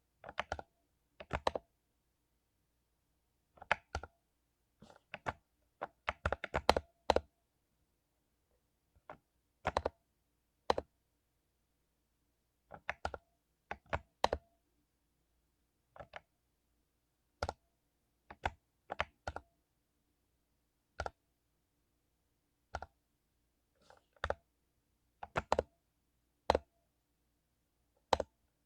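Mechanical keyboard with lubed Cherry MX Silver linear switches being typed on, in scattered single keystrokes and short quick runs with pauses between.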